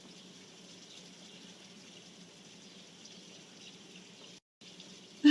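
Light rain falling, a soft, even hiss of water. It cuts out briefly near the end, and a sudden loud bump comes right at the very end.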